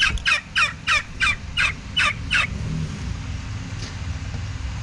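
Bourbon Red turkey calling: a quick, even series of about eight short calls over the first two and a half seconds. A steady low hum from the coop's exhaust fan runs underneath and is left alone after the calls stop.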